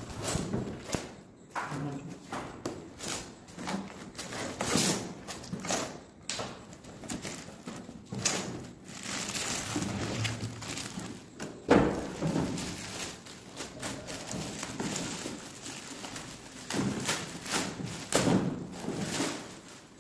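Packaging and a plumbing fitting being handled during an unboxing: irregular knocks, thumps and rustling, with one louder knock about twelve seconds in.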